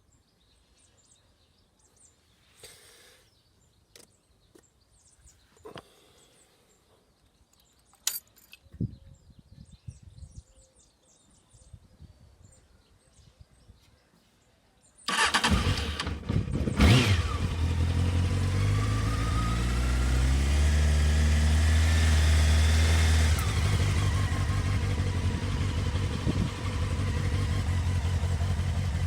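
A few faint clicks and knocks, then about halfway in a Honda CBF600S's inline-four engine cranks and fires on a cold start. It runs at a steady, fast cold idle that eases down a little several seconds later.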